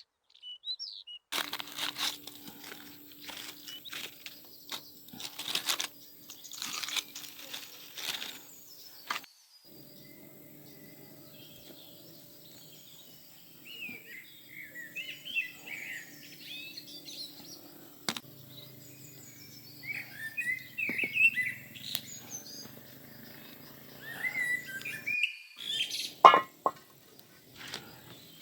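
Small birds chirping in short, quick calls, with scattered knocks and rustling in the first several seconds.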